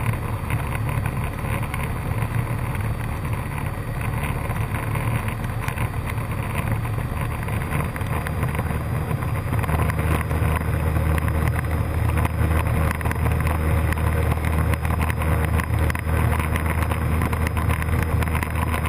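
Cessna 152's four-cylinder Lycoming O-235 engine droning steadily in cruise, heard from inside the cabin. The engine note shifts and gets a little louder about halfway through.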